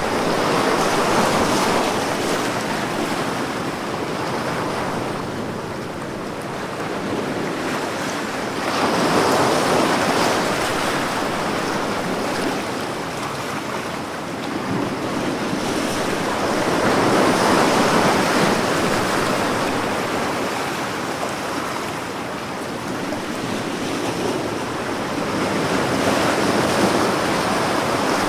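Ocean waves breaking and washing on a shore in a steady hiss of surf, swelling and easing about every eight seconds as each wave comes in.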